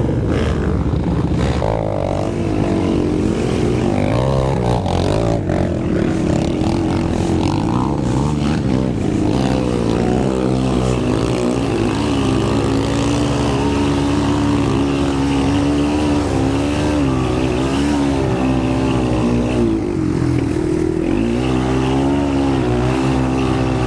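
Racing quad (ATV) engine running hard under constantly changing throttle, its pitch rising and falling as it revs up and backs off.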